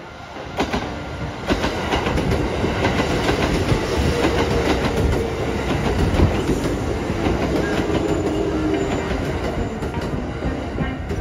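Kintetsu red-and-cream electric commuter train passing close by, its wheels clattering over rail joints and points. It builds over the first couple of seconds and then stays loud as the train runs past.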